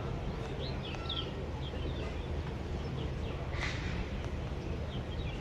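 Small birds chirping in short calls, most of them about half a second to a second and a half in, over a steady low rumble.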